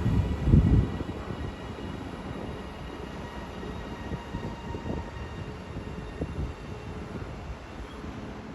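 A Class 331 electric multiple unit at the platform: a low rumble with a faint, steady electrical whine. A brief loud low thump comes about half a second in.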